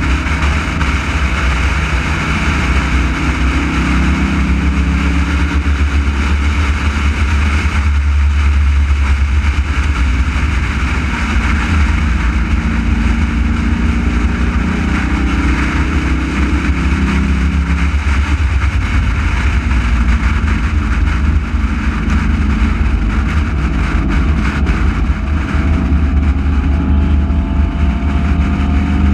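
Race car engine running hard on a circuit, its note shifting up and down every few seconds with throttle and gear changes, over a steady rush of wind on the hood-mounted camera.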